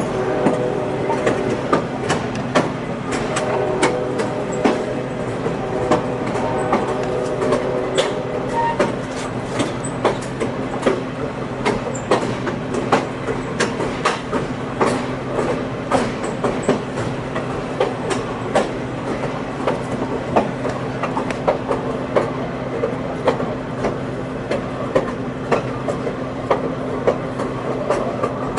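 Passenger railroad car rolling over jointed track: wheels clicking over the rail joints in a quick, irregular stream of sharp clicks above a steady low running hum.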